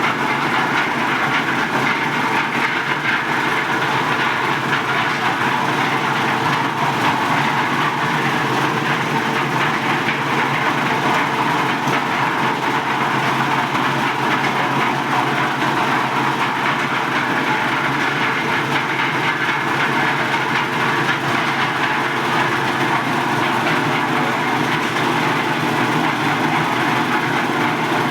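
One-bag concrete mixer running steadily, a continuous mechanical noise from its drive and turning drum.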